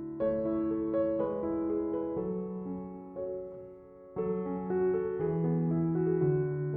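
Background music: soft, slow piano chords, each note struck and left to ring and fade, with a new chord struck about four seconds in.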